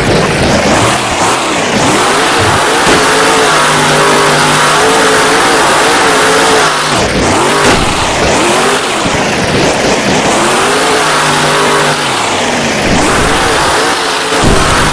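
Monster truck's supercharged V8 engine revving hard and easing off over and over, its pitch climbing and dropping in repeated waves every second or two during a run.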